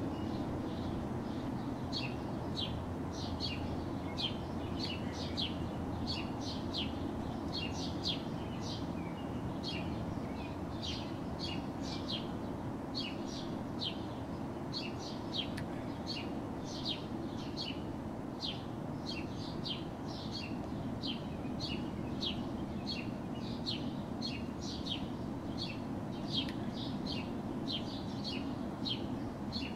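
A small songbird chirping over and over, short quick notes at about two or three a second, starting about two seconds in. Underneath is a steady low background rumble.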